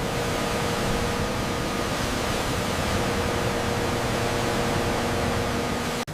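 A steady rushing noise with a faint steady hum underneath, cut off abruptly near the end.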